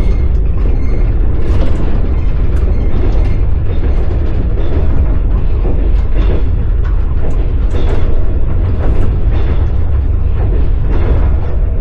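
Passenger train under way: the wheels knock and clatter on the rails over a steady heavy rumble, with irregular short knocks and rattles throughout.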